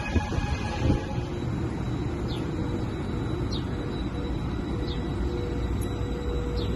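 Steady low rumble of a train at a station. A pitched whine fades out about a second in. A bird's short falling chirps repeat about every second or so.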